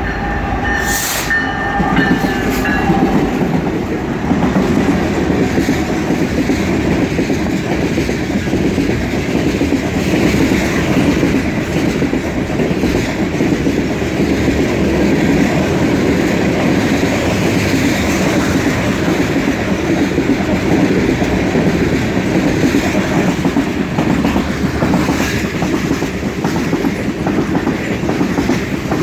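Freight train cars rolling past on the rails: a loud, steady rumble with wheel clatter over the rail joints. In the first few seconds a brief high ringing tone fades away under the rumble.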